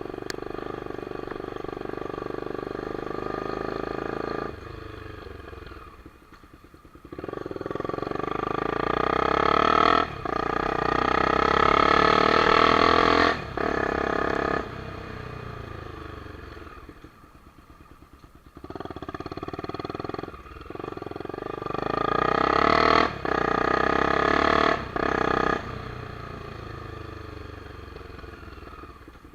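Honda CBX 250 Twister's single-cylinder four-stroke engine being ridden: it pulls hard, rising in pitch, with brief drops at each gear change, then eases off. A few seconds later it accelerates up through the gears again.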